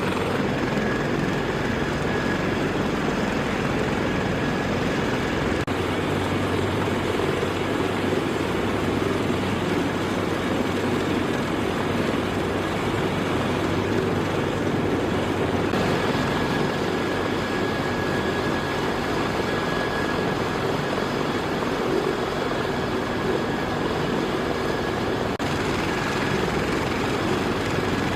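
CH-53K King Stallion heavy-lift helicopter running, its rotor and three turboshaft engines making a steady loud noise with a faint high whine on top.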